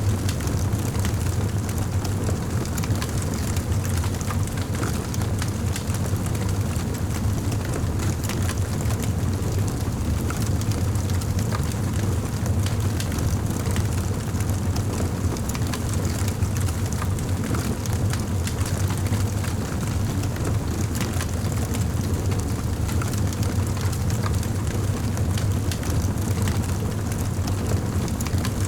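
Wood fire crackling in a fireplace: a steady low rumble of flames with frequent small pops and crackles scattered throughout.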